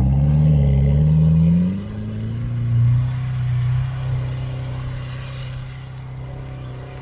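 4x4 pickup's engine revving under load as it pushes up a snowy track, its pitch rising over the first two seconds, then running steadier and fading as the vehicle pulls away.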